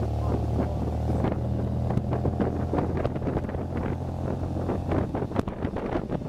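MGA sports car driving with its top down, heard from the driver's seat: a steady four-cylinder engine hum with wind buffeting the microphone in short crackly gusts. The engine note weakens about five seconds in.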